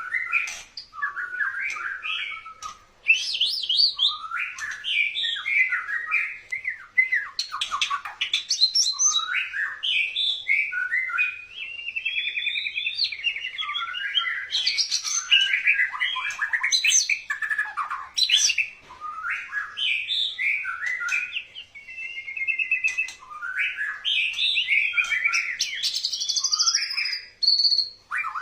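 White-rumped shama singing a long, continuous, varied song of rich whistles, rapid trills and harsher notes, phrase after phrase with only brief pauses: the wooing (ngerayu) style of song.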